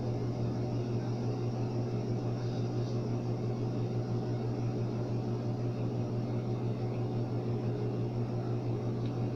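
A steady low hum with a constant hiss underneath, like a fan or an appliance running, unchanged throughout.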